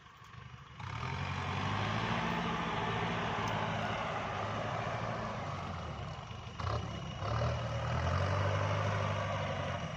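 Kubota farm tractor's diesel engine running steadily. It cuts in about a second in and dips briefly about two-thirds of the way through.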